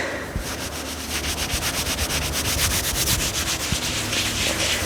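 Fabric being scratched in quick, even, repeated strokes, a dry rubbing scratch for ASMR.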